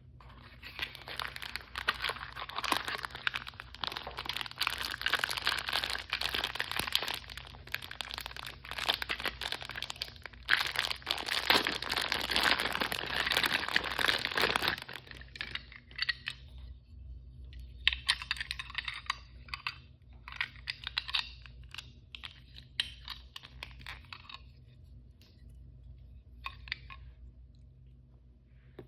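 Blind-bag packaging crinkling and tearing as it is opened by hand. Dense crinkling runs for about the first fifteen seconds, then it thins to scattered crackles.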